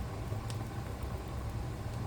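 Wood fire burning in a fireplace: a steady low rumble and hiss, with one sharp crackling pop about a quarter of the way in.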